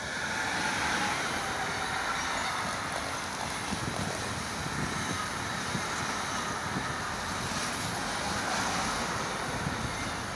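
Electric locomotive hauling an intermodal freight train past, then its container wagons rolling by: a steady rumble and rush of wheels on rail that swells as the locomotive draws level and then holds.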